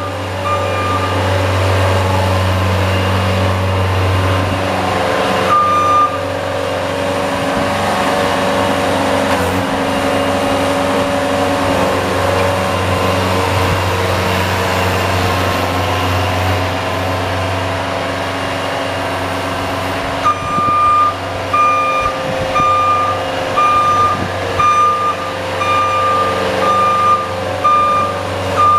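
A vehicle's engine running steadily while plowing snow, with a reversing alarm beeping about once a second through the last third, and also briefly near the start and around six seconds in.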